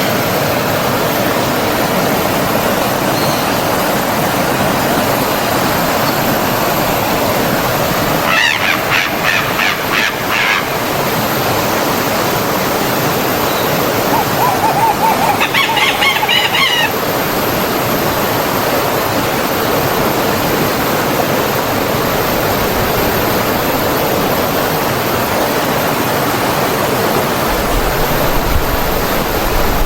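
Steady rushing of a forest stream or waterfall. A bird calls in two short runs of rapid notes, about 8 seconds in and again about 15 seconds in.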